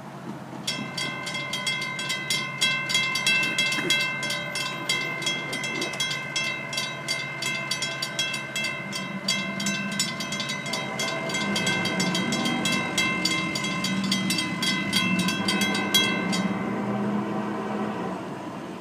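Grade crossing bell ringing rapidly, about four strokes a second, and stopping about three-quarters of the way through. Under it the Florida East Coast Railway diesel locomotives' engines rumble, growing louder in the second half as they work to pull the train back up to speed.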